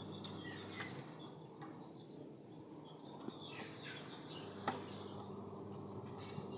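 Faint chirping of small birds, short high chirps coming in quick clusters every second or so, with one sharp click about two-thirds of the way through.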